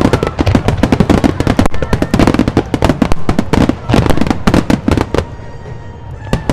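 Aerial fireworks bursting in a rapid barrage of loud bangs and crackles, thinning out to a few scattered pops about five seconds in.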